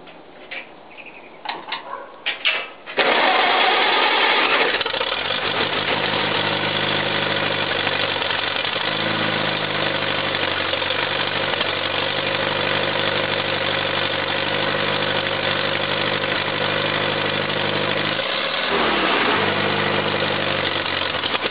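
A few clicks, then about three seconds in the 1952 Farmall Cub's small four-cylinder flathead engine starts from cold. It runs fast for a moment, then settles into a steady idle. Near the end its speed dips briefly and comes back up.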